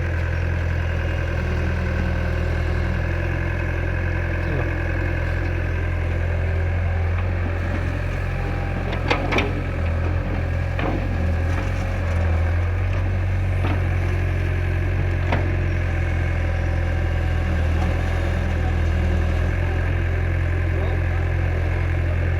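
Tractor diesel engine running steadily with a strong low hum, with a few sharp knocks about nine seconds in.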